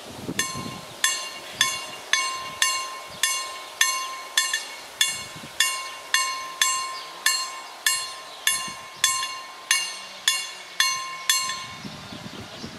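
KLD-4013 level-crossing warning bell striking steadily, about two ringing metallic strokes a second, some twenty in all, then stopping near the end: the crossing is closing for an approaching train.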